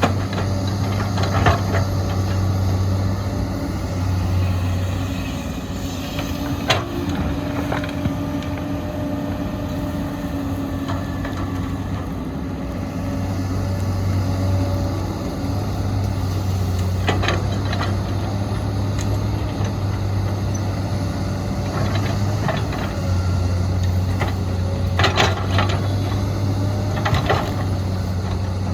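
Heavy excavator engine running steadily, its low hum swelling and easing, with a few sharp metallic clanks and knocks scattered through.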